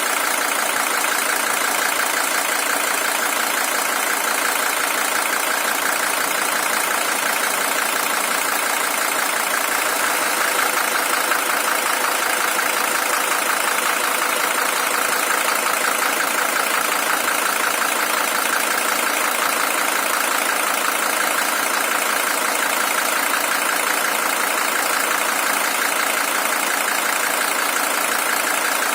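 Mercedes-Benz OM617 five-cylinder diesel in a W123 300TD, its original engine at 620,000 km, idling steadily without change.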